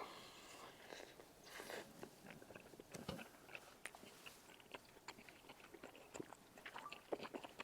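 Quiet close-up mouth sounds of chewing a spoonful of spicy rice-cake tteokbokki loaded with melted cheese and rice: soft chewing clicks and smacks, scattered unevenly throughout.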